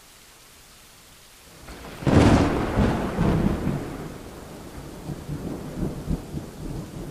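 Steady hiss of rain, then a loud thunderclap about two seconds in that rumbles and crackles away over the next few seconds.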